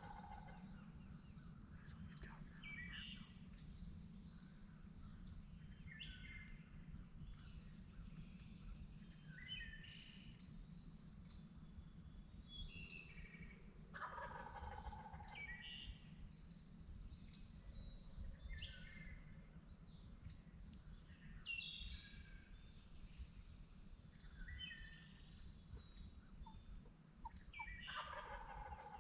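Wild turkey gobbling faintly, twice: once about halfway through and once near the end, among songbirds chirping over a steady low background noise.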